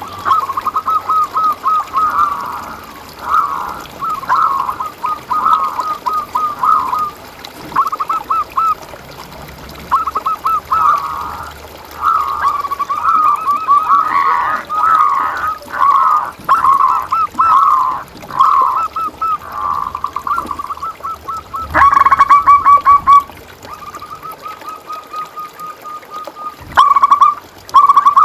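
Zebra doves (perkutut) singing: runs of quick, rhythmic cooing notes repeated over and over, with several strings overlapping. A louder stretch of song starts about three-quarters of the way through.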